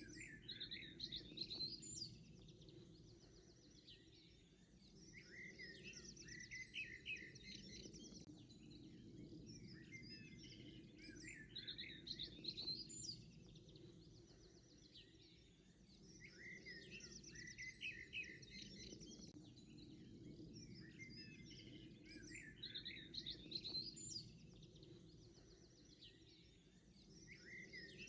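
A songbird sings, faintly, repeating a phrase of quick chirps roughly every five seconds over a low, steady background noise.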